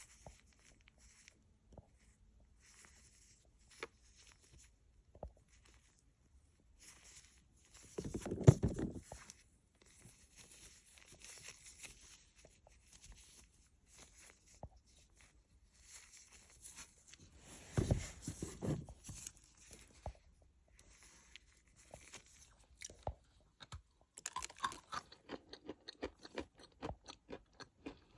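Close-up biting and chewing of dry natural edible clay: scattered crisp crunches, two loud bites about eight and eighteen seconds in, and a run of quick crunching near the end.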